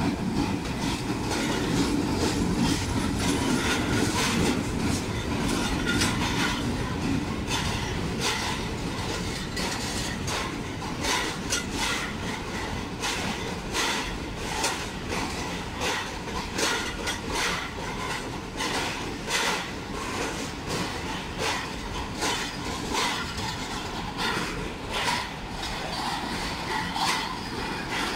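A Pakistan Railways Hitachi diesel-electric locomotive passes close by, its engine loudest for the first few seconds. Passenger coaches follow, rolling steadily past with a run of clickety-clack from the wheels over the rail joints.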